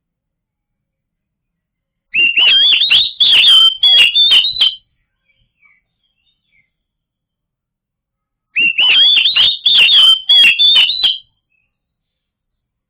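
Oriental magpie-robin (kacer) singing: two loud phrases of quick whistled and chirping notes, each about two and a half seconds long, the first about two seconds in and the second near the end, with silence between them.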